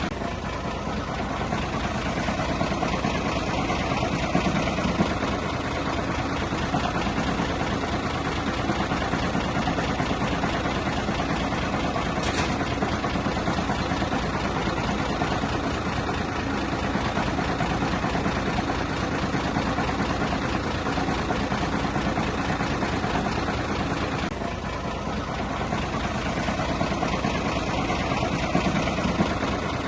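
Bulldozer's diesel engine running steadily under work, with a short break about 24 seconds in.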